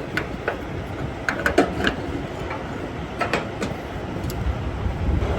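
Load-securing gear on a flatbed trailer being handled: scattered sharp metal clinks and knocks, a cluster between about one and two seconds in and a few more near three seconds in, over a steady low rumble.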